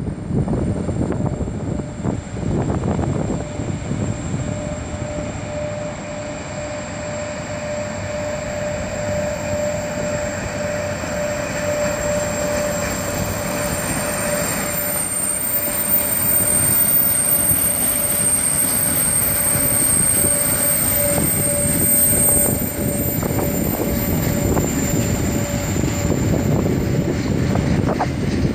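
Freight train of loaded log wagons, hauled by a VR Sr1 electric locomotive, rolling slowly past with a continuous rumble of wagons on the rails. A steady squeal from the wheels joins a few seconds in and holds.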